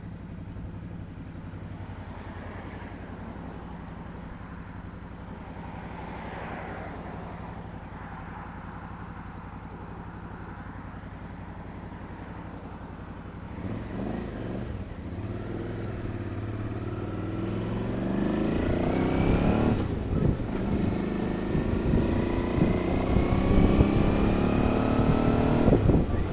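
Suzuki V-Strom motorcycle engine idling steadily, then pulling away about halfway through and accelerating, its pitch rising again and again as it goes up through the gears.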